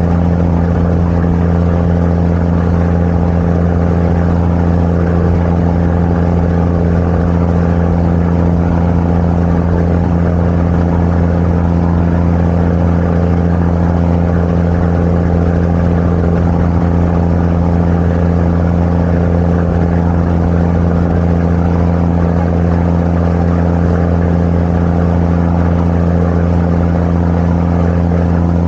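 Sightseeing boat's engine running steadily, a constant low hum heard on board.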